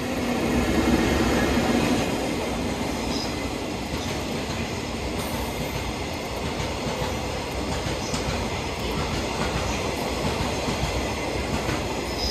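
Electric locomotive hauling a train of passenger railcars past at speed. It is loudest in the first two seconds as the locomotive goes by, then settles into the steady rolling rumble of the cars passing.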